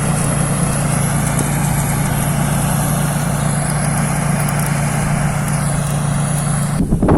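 Rice combine harvester's diesel engine running at a steady drone with a strong low hum, breaking off abruptly near the end.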